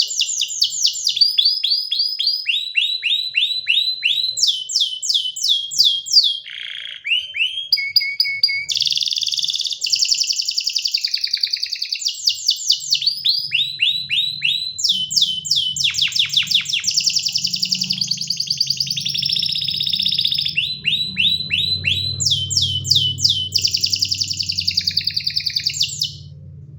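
Domestic canary singing: a continuous song made of fast trills, each a rapid run of identical high notes, switching to a new trill every second or two. A faint low hum sits under the second half, and the song stops abruptly near the end.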